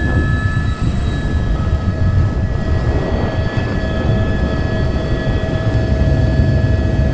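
Helicopter running close by: a steady high turbine whine with several held tones over a low rotor rumble.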